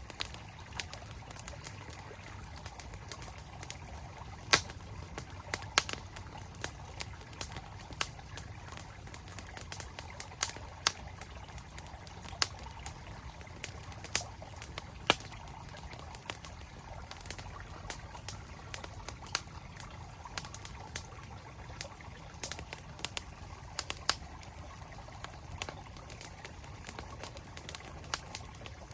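Campfire crackling with irregular sharp pops, several a second at times, over the steady rush of a flowing mountain stream.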